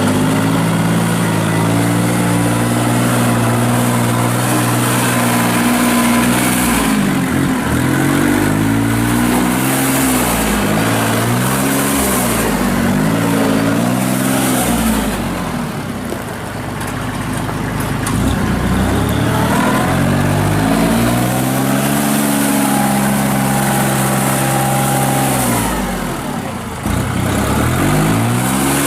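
Kubota L39 tractor's diesel engine running, its pitch rising and falling again and again as the revs go up and down, with a short easing-off about halfway through.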